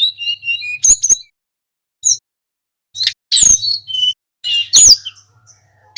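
Sulingan gunung songbird singing: phrases of quick, high, sharp whistled notes and chirps, with a pause of about a second and a half before a louder burst about three seconds in.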